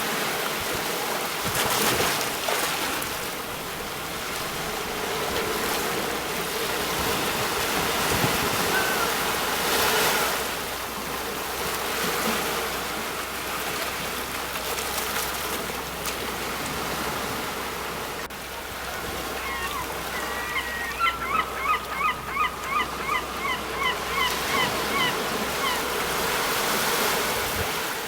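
Sea waves breaking on the shore and washing up the beach, swelling loudest about two, ten and twenty-seven seconds in. Over the surf, from about two-thirds of the way in, a bird gives a quick series of short calls, about three a second.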